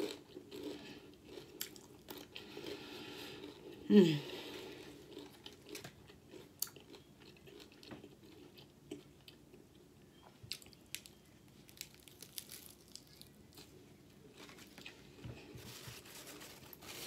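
Close-up chewing of a roast beef sandwich layered with Doritos chips, with many short, sharp crunches of the chips. About four seconds in comes a brief hum that falls in pitch.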